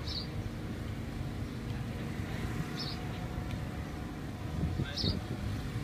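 Steady low rumble of vehicle traffic, with three short high chirps about two and a half seconds apart.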